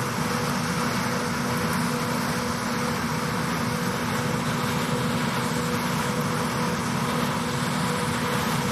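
Steady engine and machinery drone with a constant low hum, unchanging throughout, in the midst of a tractor-drawn peanut harvest.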